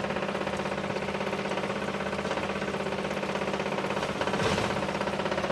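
Small pump of a homemade solvent-recirculating rig running steadily with a fast, even pulsing hum. A brief louder swell of noise comes about four and a half seconds in.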